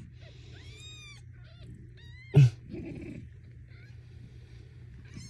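Kittens giving high, thin mews, with one short, much louder animal cry a little over two seconds in.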